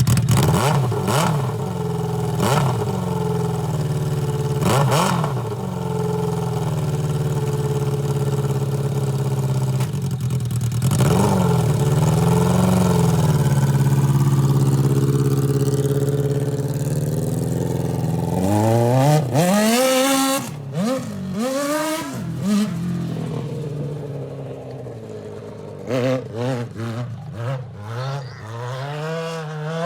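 Suzuki GSX600 inline-four motorcycle engine in a Honda Odyssey buggy, running under load on a test drive. It runs fairly steadily, dips and picks back up about ten seconds in, then revs up and down in quick succession from about eighteen seconds, and climbs in a long rising rev near the end.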